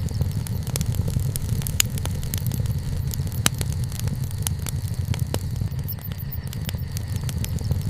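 Wood bonfire burning: irregular crackles and sharp pops of burning wood, several a second with a few louder snaps, over a steady low rumble.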